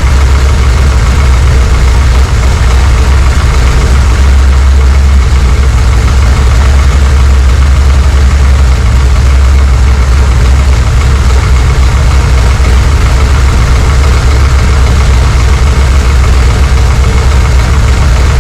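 Small-block Chevy 406 V8 idling steadily, loud and close, with a deep even rumble.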